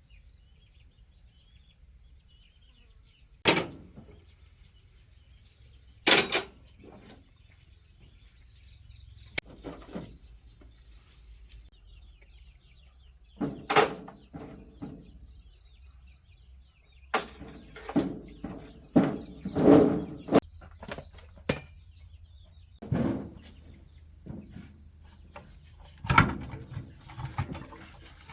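A steady, high insect chorus, like crickets, with scattered sharp knocks and clatters, most of them in the second half.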